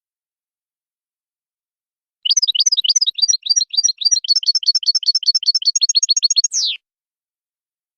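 European goldfinch singing: after about two seconds of silence, a run of high chirping notes that quickens into a fast, even trill and ends with a single falling note, about four seconds in all.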